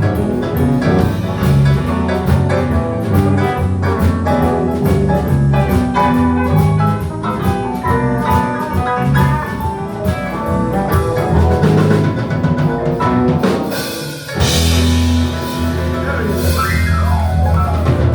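Live band music with drum kit and guitar over a strong bass line; the music drops out briefly about fourteen seconds in and comes back with a cymbal crash.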